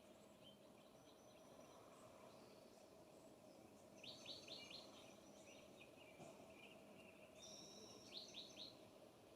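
Faint songbird calls: a quick run of four or five high notes about four seconds in and again near the end, with a thin higher note just before the second run, over a steady low background hum.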